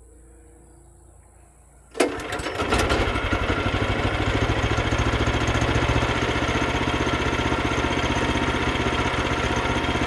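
Small gasoline engine on a portable band sawmill starting right up about two seconds in, then running steadily. This is a cold start after the engine has sat unused for over a year.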